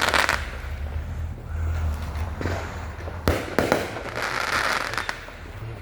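Fireworks going off: several sharp bangs, the loudest at the start and about three seconds in, with a stretch of crackling about four to five seconds in.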